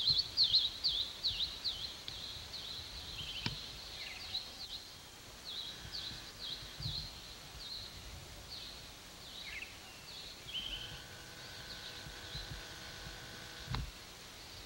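Songbirds chirping: quick runs of short, high, downward-sweeping calls, thick in the first few seconds and sparser after. About eleven seconds in a faint steady hum with several pitches joins for a few seconds, ending with a sharp click.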